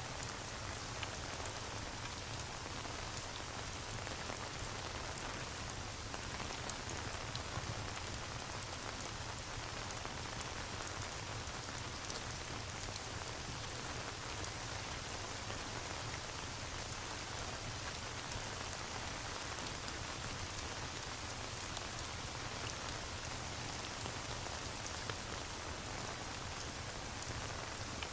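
Steady rain ambience: an even hiss of rainfall with many small scattered ticks of drops, unchanging throughout.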